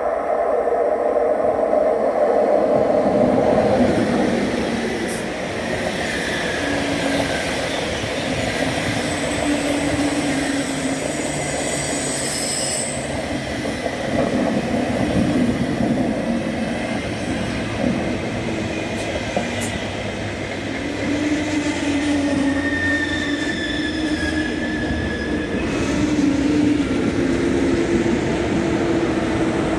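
Train running through a station, a continuous rolling rumble with high-pitched wheel squeals that come and go several times, the strongest about a third of the way in.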